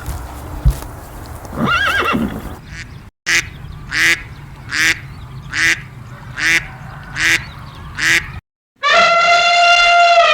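A horse whinnies. After a cut, an animal gives seven short calls at an even pace, about one every 0.8 s. After another cut, a loud, long call with a steady pitch begins about 9 s in and is still going at the end.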